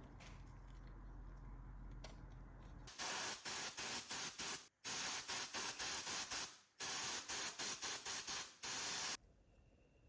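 Aerosol spray can hissing in a run of short bursts with a couple of brief pauses, about three to nine seconds in.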